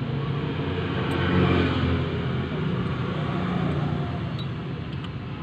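Motor vehicle engine running at a steady low pitch, swelling slightly about a second in and then holding even.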